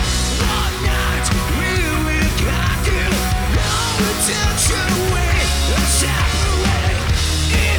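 Rock band playing, with a heavy steady bass line, drums with cymbal crashes, and pitched guitar lines over them.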